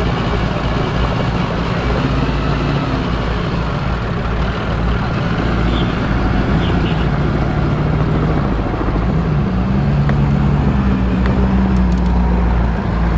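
Koenigsegg Jesko Absolut's twin-turbo 5.0-litre V8 idling steadily, its note stepping up a little about ten seconds in.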